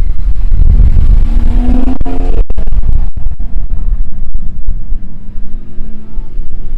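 Lowered Mercedes CLA Shooting Brake driving slowly past, its engine note rising in pitch as it pulls away about two seconds in, then fading, over a heavy low rumble. Near the end a second car's engine rises faintly.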